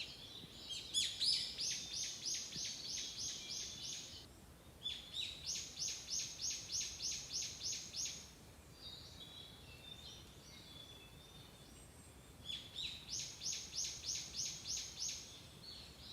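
A small songbird singing: three bouts of evenly repeated high notes, about four a second, each bout lasting three to four seconds, with fainter chirps in between.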